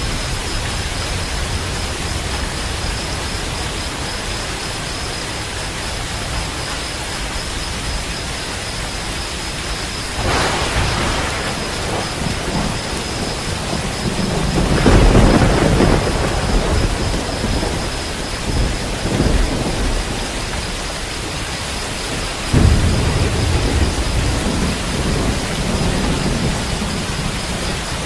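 Steady rain with thunder. A crack about ten seconds in, the loudest low rumble around fifteen seconds, and another sudden clap about two-thirds of the way through that rumbles on for several seconds.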